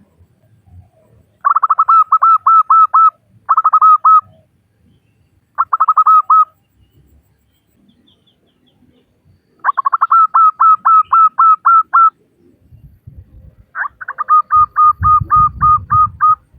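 Female zebra dove (perkutut) calling: five bursts of quick, evenly repeated cooing notes, each burst lasting about one to two and a half seconds, with pauses between them. A low rumble sits under the last few seconds.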